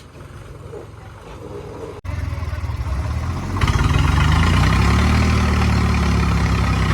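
Tractor diesel engine running quietly at first. After a momentary cut-out about two seconds in, it comes back louder. From about three and a half seconds in it is revved up hard and held steady at high revs.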